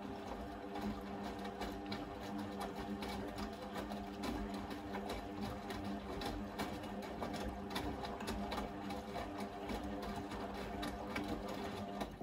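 Blomberg fuzzyDigitronic Granat 3200 washing machine running: a steady mechanical hum with dense rattling and clicking, which cuts off suddenly at the very end.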